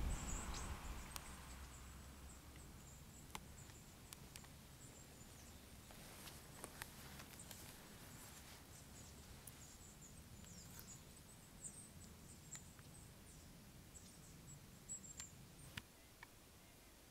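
Near silence with faint, very high, thin chirps of small birds coming and going, and a few soft clicks.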